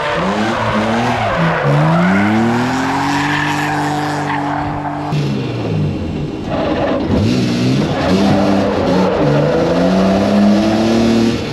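A BMW car's engine revving hard under acceleration. Its pitch climbs and holds, drops suddenly about five seconds in at a gear change, then climbs again.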